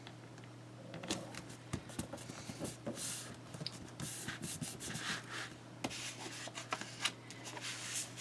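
Paper being rubbed and smoothed down by hand, with irregular rustling strokes and small taps.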